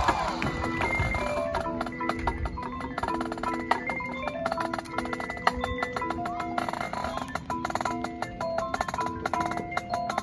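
Marching band percussion playing a soft passage of mallet instruments: short marimba-like notes in a repeating pattern, with sharp wood-block-like clicks.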